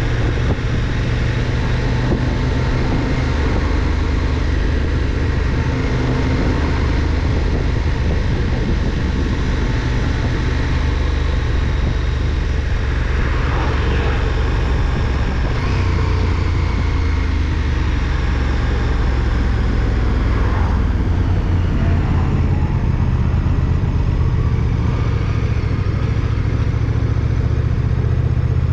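KTM 1290 Super Duke R's V-twin engine running under way, heard through a bike-mounted GoPro with a steady rush of wind noise. The engine note shifts about halfway through and again around two-thirds through.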